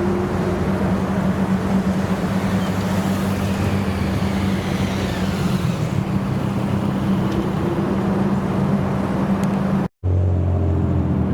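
Car engines idling with a steady low drone; about ten seconds in the sound cuts off for an instant and another idling engine with a deeper note follows.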